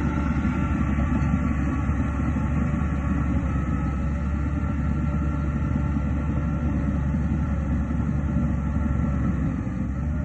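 Crawler bulldozer's diesel engine running steadily, a low rumble with a few steady higher tones above it.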